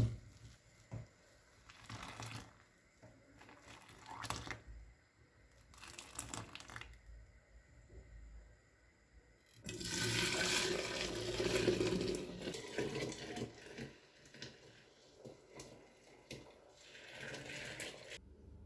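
Kitchen sink tap running in short spurts, then a longer, louder run about ten seconds in that tails off, with one more brief run near the end.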